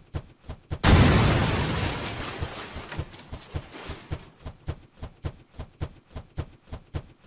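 Cartoon explosion sound effect: a sudden loud blast about a second in that dies away over a couple of seconds. A steady series of knocks, about three a second, runs alongside it.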